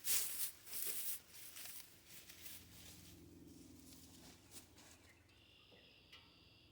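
Brief rustling and handling noise at first, then quiet outdoor ambience with faint bird chirping near the end; no engine cranking is heard.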